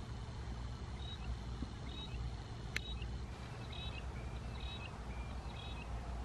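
Birds calling in short, repeated chirps over a steady low rumble, with one sharp click about three seconds in.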